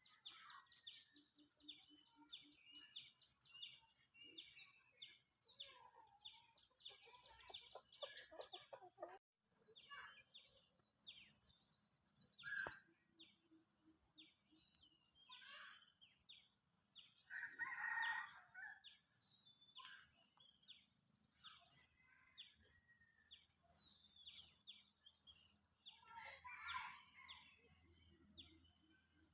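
Budgerigars chirping and chattering faintly: runs of fast trilling notes and short chirps, with a few louder calls in the second half.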